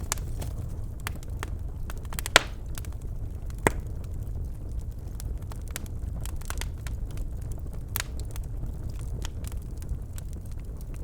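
Birchwood fire burning in a fireplace: a steady low rumble of the flames with scattered crackles and pops, two sharp loud pops a little over a second apart near the start.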